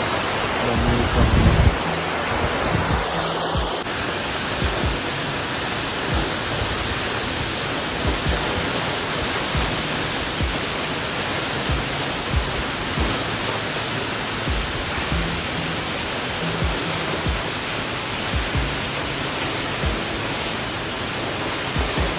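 Steady rush of a large waterfall, an even wash of falling water with no break. A brief low rumble about a second in.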